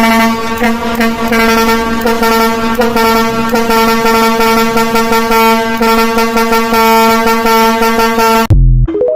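Truck's multi-tone air horn sounded in one long, loud, steady chord that stops abruptly about eight and a half seconds in.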